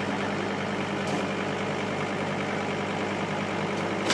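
Diesel engine of a front-end loader idling steadily with its bucket raised, a constant low hum.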